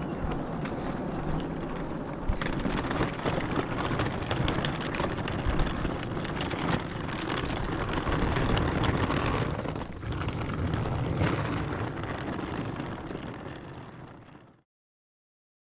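Campfire crackling and popping in a steady stream of sharp snaps over a low rumble, fading out about a second before the end.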